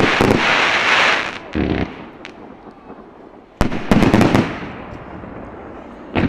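Aerial fireworks shells bursting at close range. There is a loud stretch of bursts at the start that fades after a second or so, a sharp report about three and a half seconds in followed by another loud burst that dies away, and a crack near the end.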